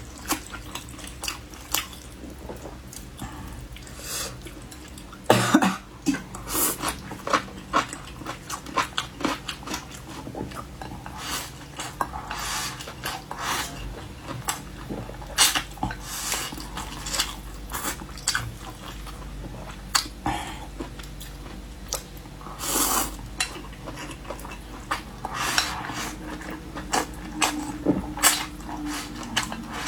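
Close-miked eating: wet chewing and mouth sounds with many small clicks and taps of utensils against dishes, a few louder bursts among them.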